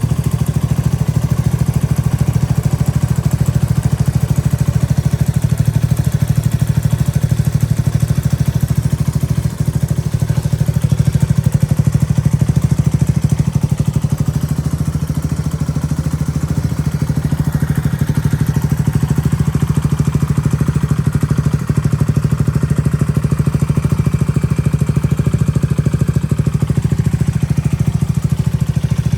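Yamaha TW200's single-cylinder four-stroke engine idling steadily.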